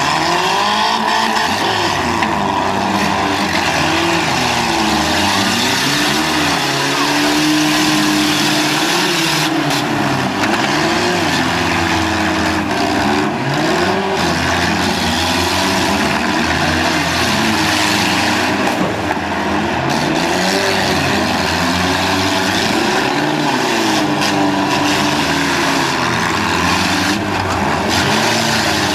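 Several demolition derby cars' engines revving up and down together, their pitches rising and falling over one another, with a few sharp knocks from car bodies hitting.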